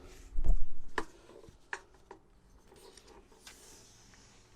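A dull thump about half a second in, then a few light clicks and knocks as seatbelt fitting parts are handled and put in place.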